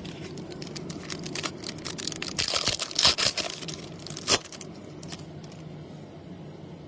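Foil trading-card pack wrapper being torn open and crinkled, a crackly rustle with sharp snaps, loudest about three seconds in, with a last sharp crack a little after four seconds.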